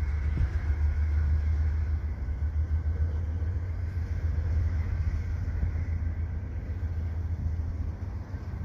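Low, steady rumble of a slow Canadian Pacific mixed freight train's cars rolling away on the rails.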